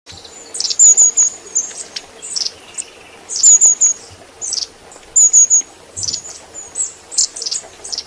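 Long-tailed tit calling: short runs of thin, very high notes and quick trills, repeated about every second.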